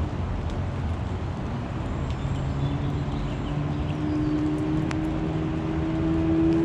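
An engine drone comes in about two seconds in, rising slowly in pitch and growing louder, over a steady rushing background.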